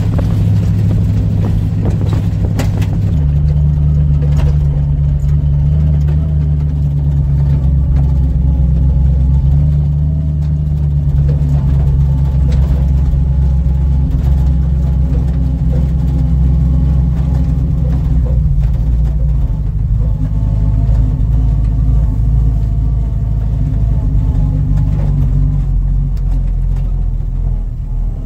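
Ford F3 pickup's flathead engine running steadily under way; its note changes about three seconds in, then holds.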